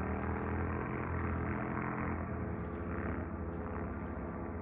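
An engine running steadily at an even speed, a continuous low drone with no change in pitch.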